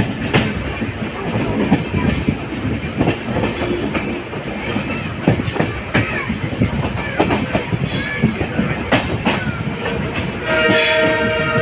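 Express train running, its wheels knocking and clattering over the rail joints in an irregular rattle. Near the end the locomotive horn sounds a steady held note that carries on.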